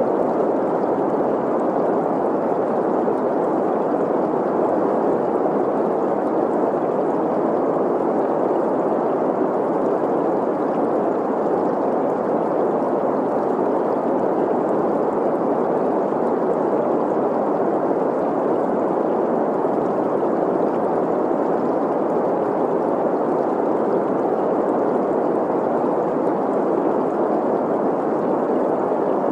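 Synthetic green noise, a steady hiss centred in the middle range around 500 Hz, blended with the sound of a flowing, gurgling stream. It holds unchanged throughout.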